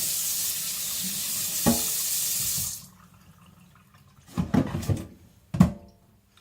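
Tap water running over a whetstone being rinsed in the sink, shut off suddenly about three seconds in. Then a few sharp knocks and clatters, the loudest near the end.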